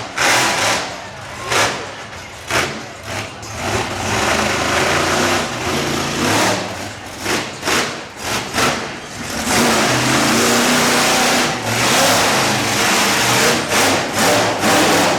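Monster truck engine blipping its throttle in short bursts, then running hard at high revs for several seconds from about halfway in.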